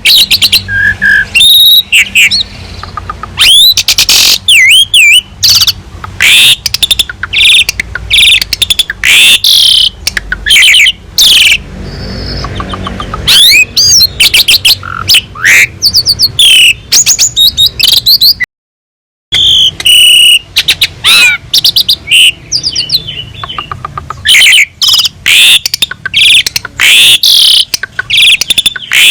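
Asian pied starling (jalak suren) singing a loud, dense, varied song of whistled glides, chattering and rapid clicking notes. The song cuts out briefly a little past the middle, then resumes.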